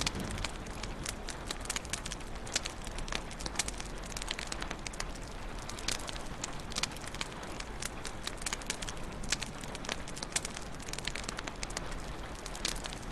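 Wood fire in a fireplace crackling, with frequent irregular sharp pops and snaps over a steady hiss and low rumble of the flames.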